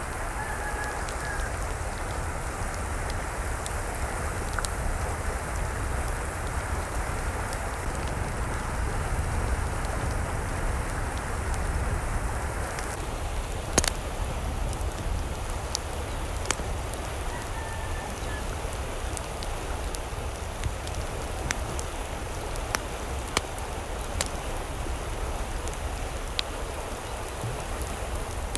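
Steady rain-like water noise with a low rumble, broken by scattered sharp drip-like ticks. A faint short call is heard twice, about a second in and again midway.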